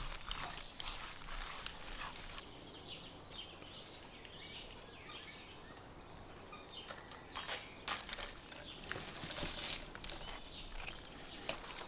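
Outdoor ambience: faint bird chirps, with scattered rustling and handling clicks.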